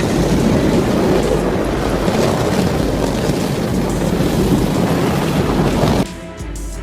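Loud, steady noise of a vehicle on the move, with wind buffeting the microphone. About six seconds in it cuts off suddenly, and music with plucked guitar notes begins.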